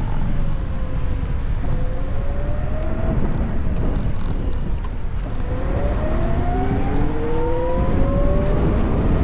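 Riding wind rumbling on the microphone, with the VMoto Stash electric motorcycle's motor whine rising in pitch twice as the bike accelerates, once briefly a couple of seconds in and again over a few seconds in the second half.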